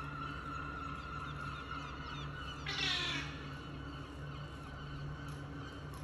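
Fledgling seagull's begging cry: one loud falling call about three seconds in, among fainter calls, over a steady low hum.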